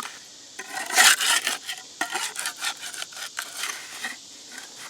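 Irregular scraping and rubbing as wet concrete is worked into a concrete block core, with the loudest scrape about a second in.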